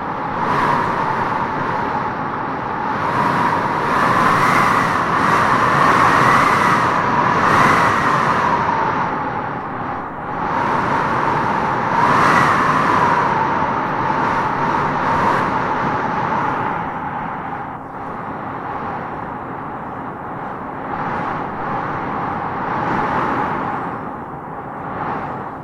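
Wind gusting through trees with a wavering, whistling howl that rises and falls. The gusts are strongest in the first half, swell again about twelve seconds in, and then ease off.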